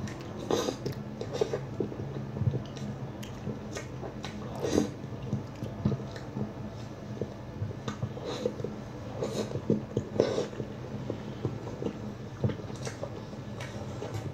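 A person chewing food close up, with irregular wet mouth smacks and clicks over a low steady hum.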